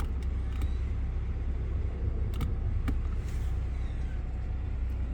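2022 Toyota Tundra's twin-turbo V6 idling, a steady low rumble heard from inside the cab, with a few light clicks.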